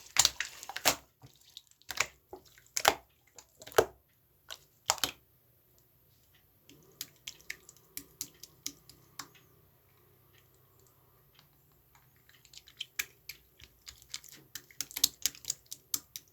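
Slime being squished and worked by hand, making sharp sticky clicks and wet pops. The clicks are dense at first, turn sparse and faint in the middle, then come in a quick run near the end.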